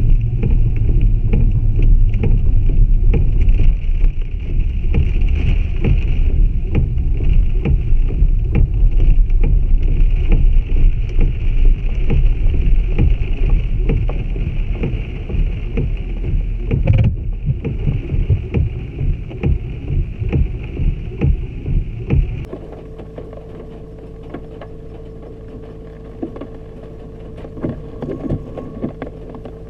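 Rain pattering on a vehicle's windshield and roof, heard from inside, over a steady low rumble. About 22 seconds in, the sound drops abruptly to a quieter steady hum with scattered drop taps.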